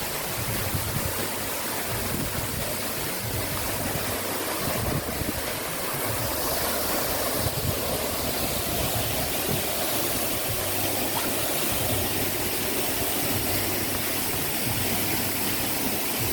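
Waterfall pouring into its pool: a steady, constant rush of falling water.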